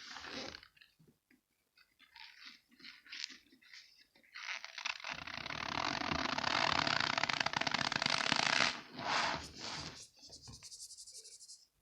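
Big balls of cornstarch squeezed by hand, giving squeaky crunches: a few short ones, then one long crunch of about four seconds starting about four seconds in, then a few more short ones.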